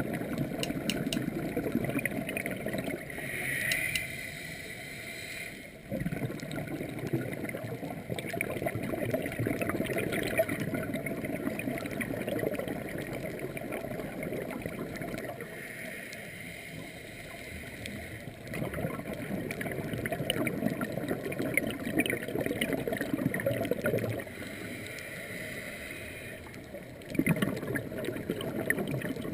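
Scuba diver breathing through a regulator underwater: long stretches of gurgling exhaled bubbles, broken three times by a softer hissing inhale lasting a few seconds.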